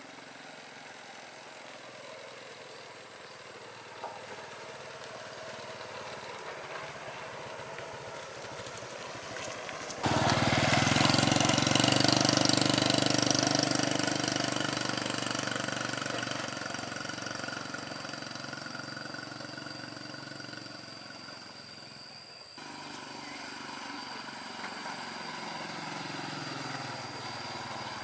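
A motor vehicle's engine running steadily. It turns abruptly much louder about ten seconds in, fades over the following seconds, and breaks off with a cut into a similar engine sound near the end.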